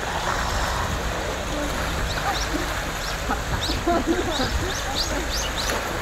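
Birds chirping in a rapid series of short, high calls that start about two seconds in, over a steady background rush.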